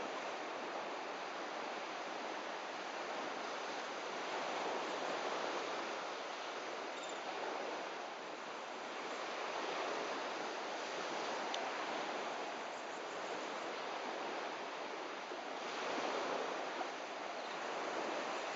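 Surf washing onto a beach: a steady rush of water that swells every five or six seconds.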